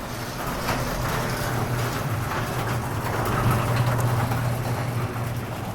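Motor vehicle engine running with a steady low hum under a rushing noise, growing louder toward the middle and easing off near the end.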